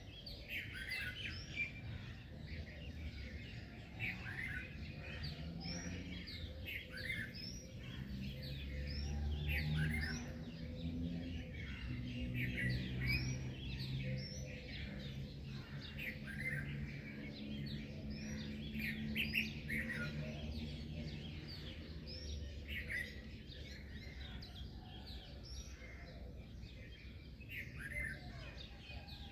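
A chorus of small songbirds chirping, with many short, quick calls overlapping throughout. Under it runs a low steady drone that is loudest in the middle stretch.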